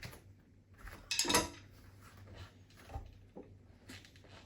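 A few small knocks and clatters of objects being handled, the loudest a short rattle about a second in.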